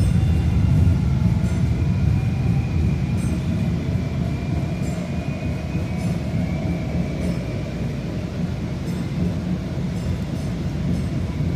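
Steady low rumble of a moving vehicle, with faint whining tones held above it.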